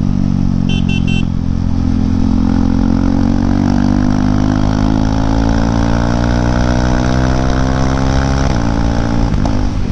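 KTM Duke 390 single-cylinder engine breathing through a BS4 exhaust, pulling under load as the bike accelerates. The engine note climbs steadily for about eight seconds, then drops suddenly near the end.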